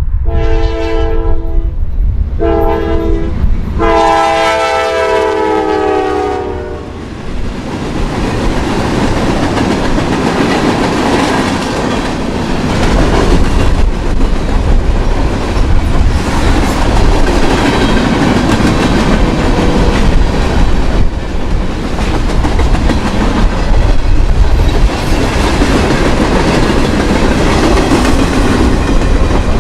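Locomotive air horn sounding a chord in three blasts, a longer one, a short one and a long last one that drops in pitch as the locomotive passes. The train's cars then rumble and clatter by over the rail joints.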